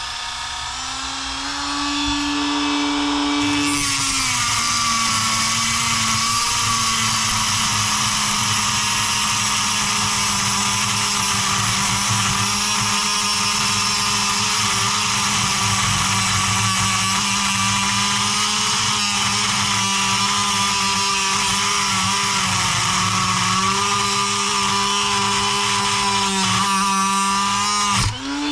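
Dremel rotary tool with a cut-off wheel running at high speed and grinding through the metal shaft of an RC car's electric motor. The tool hums on its own at first, the grinding hiss comes in about three and a half seconds in, and both stop suddenly near the end as the shaft is cut through.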